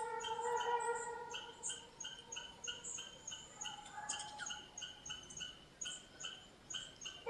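A small bird chirping over and over in short, high notes, about three a second.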